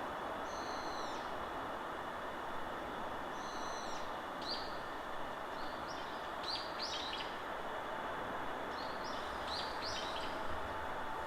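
Forest birds calling over a steady rush of wind through the trees. There are two short calls near the start, then quick groups of falling chirps in the middle and again near the end.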